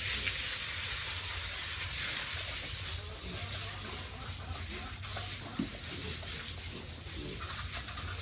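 Water spraying from a hose in a steady hiss, with a low hum underneath.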